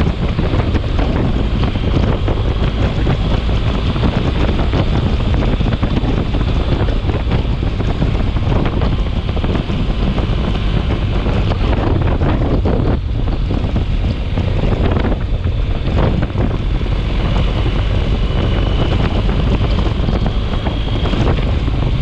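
Storm wind blowing hard over the microphone: a loud, steady rush heaviest in the low end, with a faint thin whistle for a few seconds near the end.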